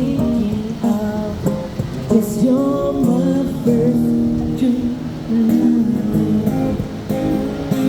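Live acoustic guitar strumming a song, with a voice singing over it at times.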